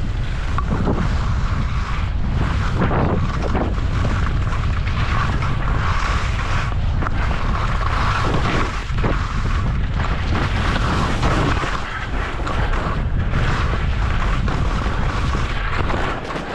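Wind buffeting the microphone of a moving skier, with the hiss of skis sliding through snow. It drops off sharply at the very end as the skier slows to a stop.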